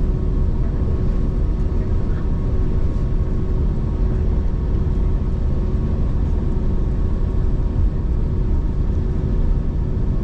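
Steady cabin noise inside an Airbus A321neo, a deep rumble with a faint steady hum from its Pratt & Whitney geared turbofans.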